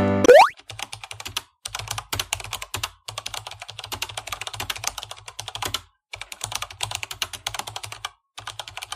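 Rapid computer-keyboard typing: fast runs of key clicks lasting a second or more each, with short breaks between. It follows a short rising glide in the first half-second.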